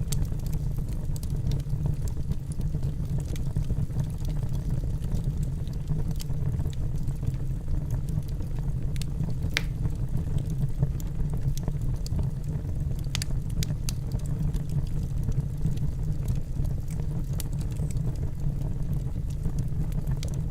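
Wood fire burning in a fireplace: a steady low rumble of flames with scattered crackles and pops from the logs. A sharper pop comes about halfway through and another a few seconds later.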